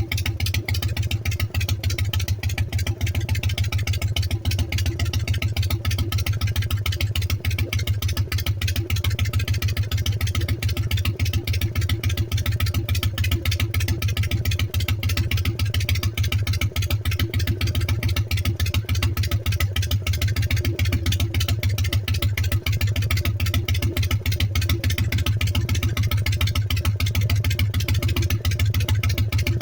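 Freshly rebuilt motorcycle engine idling steadily, with a rapid, even pulse of firing strokes.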